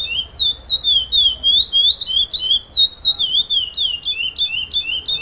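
Male curió (chestnut-bellied seed finch) singing a continuous run of clear whistled notes, about four a second, each note dipping or rising in pitch, in the repeating song style judged at curió contests.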